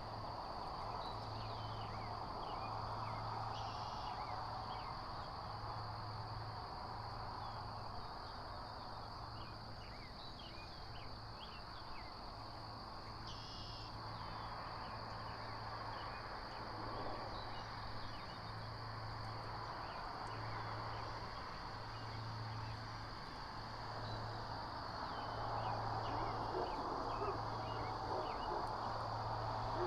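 Outdoor ambience at a hawk nest-camera microphone: steady wind and leaf noise with many faint, short chirps of small birds, over a steady high electronic tone and a low pulsing hum.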